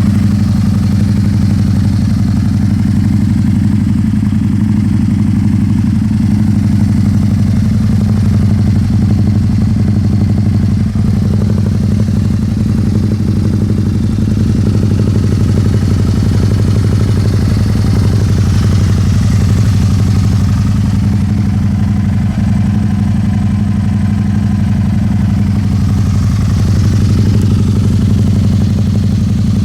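Can-Am Spyder RS-S three-wheeler's V-twin engine idling steadily through an aftermarket Yoshimura exhaust, an even, unchanging note.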